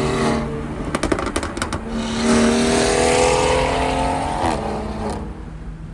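Car engine under acceleration. A quick run of sharp pops about a second in, then the engine pulls with its pitch rising slowly, and it falls away near the end.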